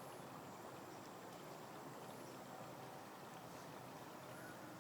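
Faint steady rush of creek water, with no distinct events.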